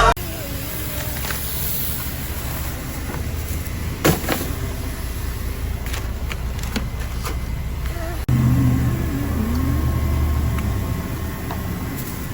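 Steady low rumble with scattered short clicks and a knock about four seconds in. About eight seconds in it breaks off and a louder low hum takes over.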